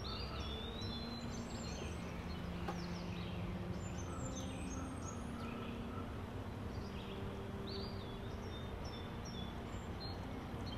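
Birds chirping and singing in short, scattered phrases over a steady low background noise.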